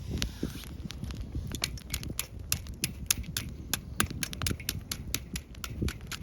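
Wood fire crackling, with many sharp irregular pops over a low rumble and a short hiss right at the start.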